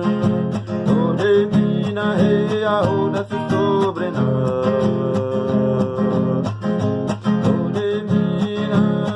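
Acoustic guitar strummed in a steady rhythm as accompaniment to a song.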